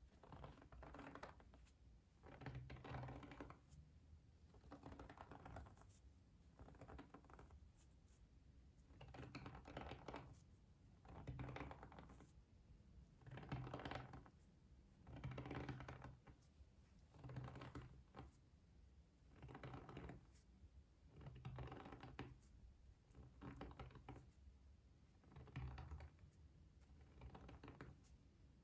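Soft close-miked ASMR trigger sounds: a slow, even run of scratchy strokes, about one every two seconds.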